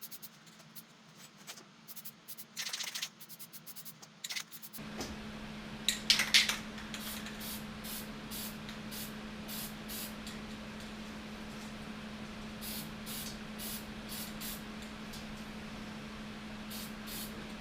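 Repeated short hissing sprays, a loud cluster about six seconds in and more short bursts after. They sound over a steady low hum that starts about five seconds in.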